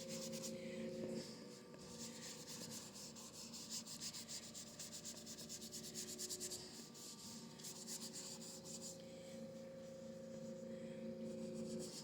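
Paintbrush scrubbing acrylic paint onto canvas in many quick, faint back-and-forth strokes. A faint steady hum runs under it, weakening in the middle and returning later.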